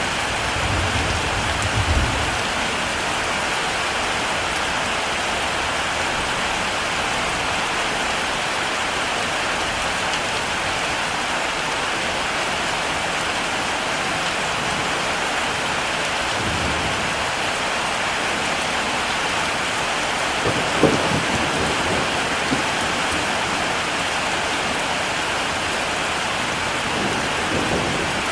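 Heavy rain falling steadily, with low rumbles of thunder near the start and again about 16 seconds in. There are a few short sharp knocks about 21 seconds in.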